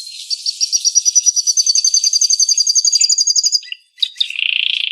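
Domestic canary singing: a long, fast trill of repeated high notes that climbs slightly in pitch, then, after a brief pause near the end, a lower, buzzy rolling phrase.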